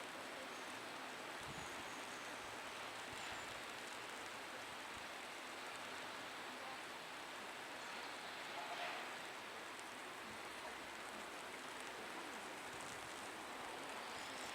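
Steady rain falling, an even hiss, with one brief swell about nine seconds in.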